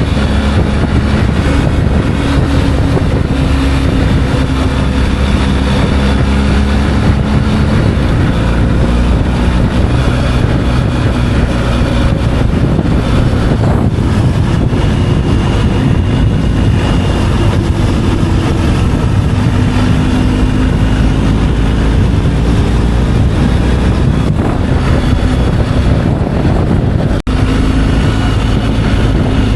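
Motorcycle engine running while riding, under a loud rush of wind on the microphone, the engine note drifting slowly up and down. The sound drops out for an instant near the end.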